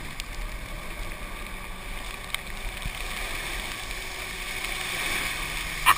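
Golf cart driving along, a steady noise of its drive and tyres with wind on the microphone.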